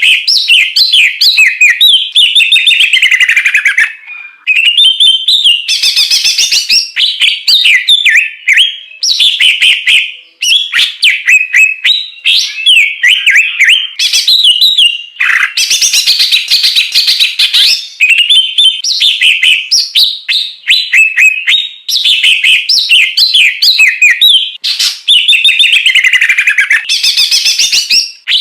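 Songbird song: a fast, unbroken stream of varied whistled notes, trills and chattering phrases, with brief pauses about four and ten seconds in and a harsher, scratchy stretch a little past the middle.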